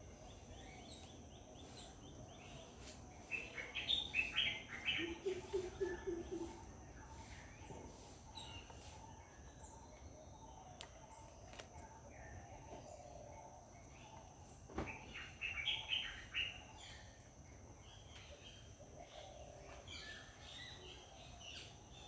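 Birds calling in two bursts of rapid chattering notes, one about three seconds in and a shorter one about fifteen seconds in, over a faint steady high-pitched hum.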